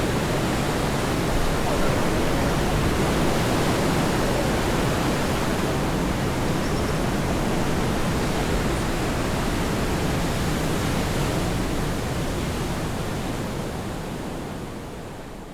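Steady outdoor rushing noise, even and unbroken, that fades out over the last few seconds.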